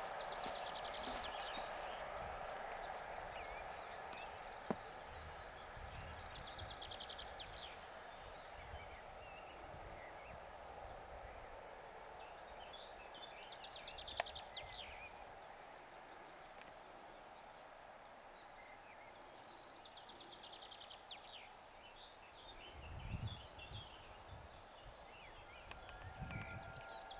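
Fading rumble of a receding steam-hauled passenger train dying away over about the first fifteen seconds, with small birds singing short high trills throughout. A couple of sharp clicks and a few low thumps near the end.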